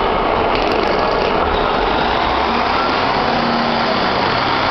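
Diesel multiple-unit train idling at the platform, a steady engine rumble.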